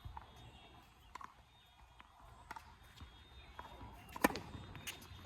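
Scattered light knocks and taps, with one sharper knock about four seconds in.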